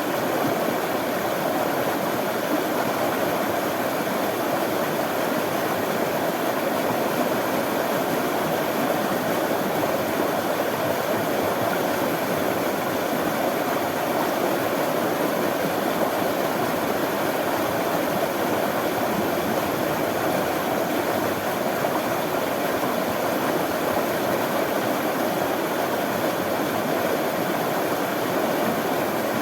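Running water flowing steadily: an even, continuous rush with no breaks.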